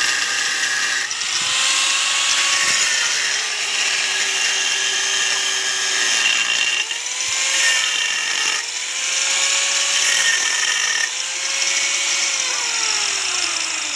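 Electric power tool cutting into the steel shell of a refrigerator compressor. There is a harsh high hiss of the cut, and the motor's pitch sags as the tool bites and recovers several times. Near the end the motor winds down in pitch.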